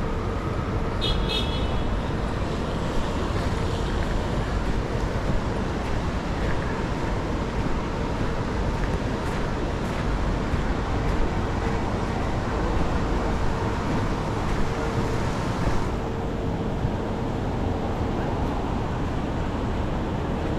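Steady rumble of city vehicle traffic, with a short high beep about a second in.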